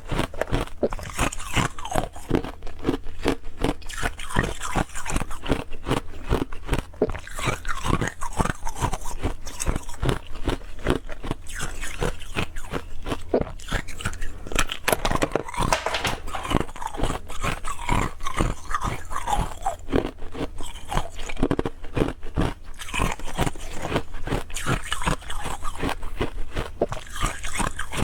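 Close-up crunching of hard, clear ice cubes being bitten and chewed, a dense run of sharp cracks and crunches with no pause.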